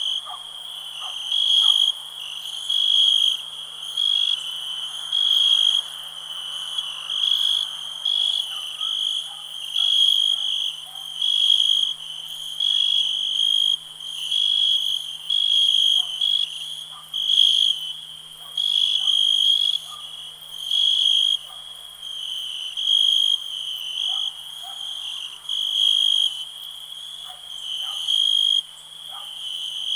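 Cricket chirping: a high-pitched trill repeated in bursts about every second and a half, over a faint steady low hum.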